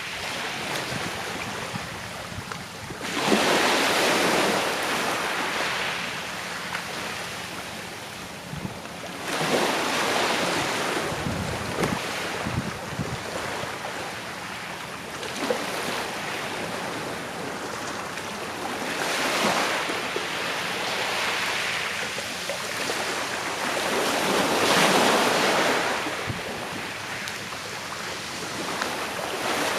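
Calm sea waves washing onto the shore, each wash swelling and fading every few seconds.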